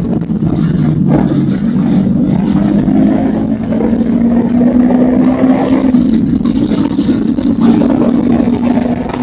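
Motorcycle engine running under way, its note rising over the first few seconds and then holding steady.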